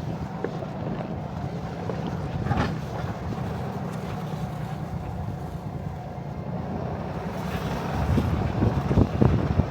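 Diesel truck engine running steadily, with wind on the microphone and a few knocks and thuds near the end.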